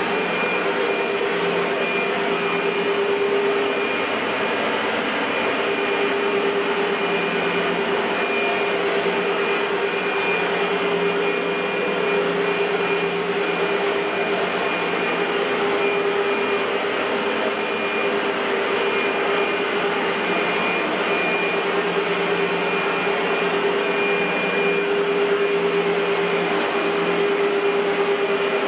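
Century 400 U-Vac (a rebadged SEBO UPV 12) commercial upright vacuum cleaner running steadily: an even rush of air with a constant motor whine.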